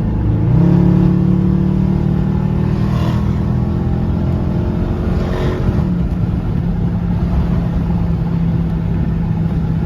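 Dodge Charger R/T's V8 engine and road noise heard from inside the car on the move. About half a second in, the engine note steps up in pitch and gets louder as the car accelerates. It holds steady, then eases slightly lower about six seconds in.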